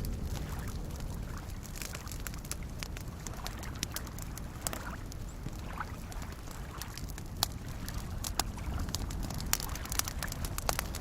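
Campfire crackling with scattered sharp pops, more of them in the second half, over a steady wash of soft lake waves lapping.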